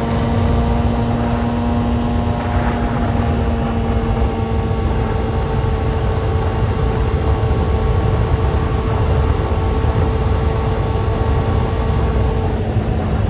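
Motorcycle engine holding a steady note while riding, under a heavy low wind rumble; the engine note changes near the end.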